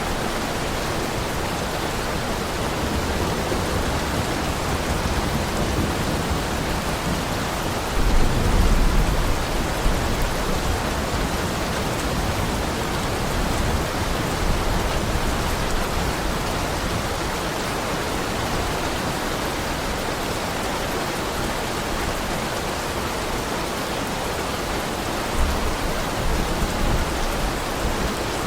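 Heavy rain falling steadily, with low thunder rumbles about eight seconds in and again near the end.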